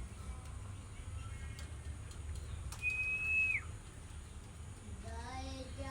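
A single clear whistled note, held for most of a second, then falling sharply in pitch, with a few faint chirps before it. A voice starts singing near the end.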